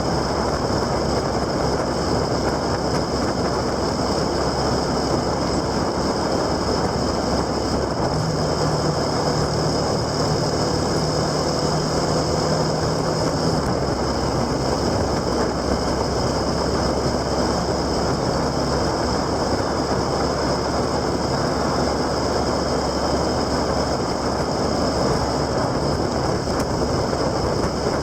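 Steady wind and road noise of a vehicle on the move, with a low engine-like hum that comes in about eight seconds in and fades a few seconds later.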